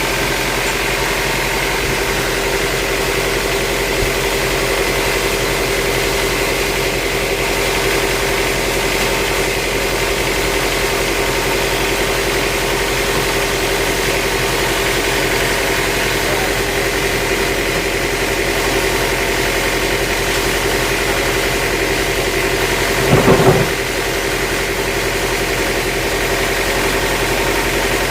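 An engine running steadily with a constant hum, and a brief louder noise about 23 seconds in.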